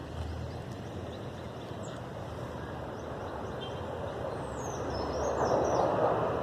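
Outdoor background noise that swells louder over the last couple of seconds, with a small bird's high twittering call about five seconds in.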